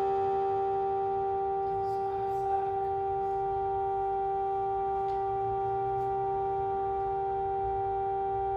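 Synthesizer holding a steady, unchanging drone chord, with a few faint clicks now and then.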